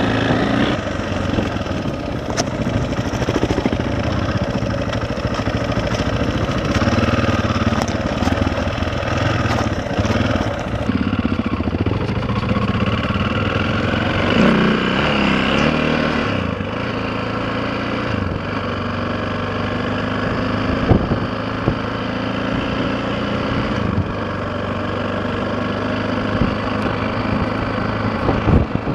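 KTM 525 dirt bike's single-cylinder four-stroke engine running while riding, its note rising and falling with the throttle. A few sharp knocks stand out, the loudest near the end.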